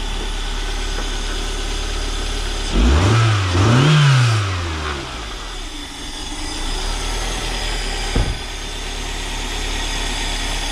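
Replacement engine in a Toyota Celica SS-II running on its first start after an engine swap: idling steadily, revved up twice in quick succession about three seconds in, then settling back to idle. A single sharp click comes near the end.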